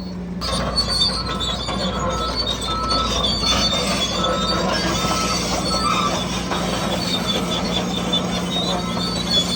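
Radio-controlled model construction machinery at work: steady electric motor and gearbox whine, with high squealing and grinding from metal tracks and rock.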